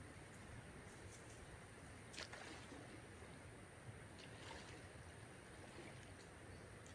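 Near silence: a faint steady background hiss, with a soft click about two seconds in and a couple of fainter ones about four seconds in.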